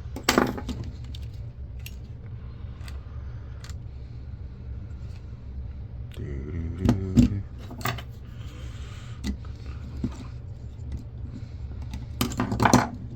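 Plastic and metal parts of an old camcorder being handled and pulled apart: scattered clicks and light clinks, with louder clattering rattles near the start, midway and near the end, over a steady low hum.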